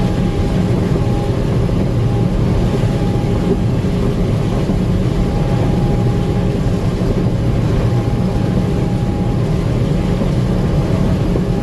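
Gleaner M2 combine running steadily while harvesting corn: an even, loud low drone, with a faint whine that comes and goes.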